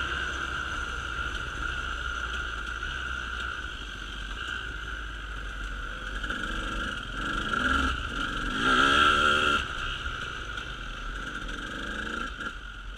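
A motor vehicle engine running, with the revs rising and falling twice about two-thirds of the way through.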